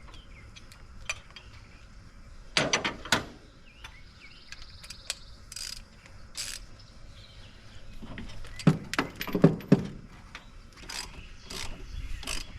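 Hands working at the back of a truck's engine block to unclip and pull the wire connector from the coolant temperature sensor: scattered clicks and clinks of metal and plastic parts, with two louder bunches of knocks, one about two and a half seconds in and another around nine seconds.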